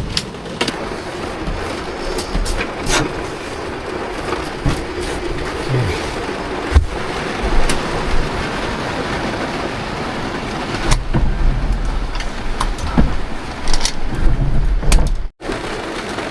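Heavy rain drumming steadily on a vehicle's roof, with scattered knocks and low thumps, more frequent in the second half.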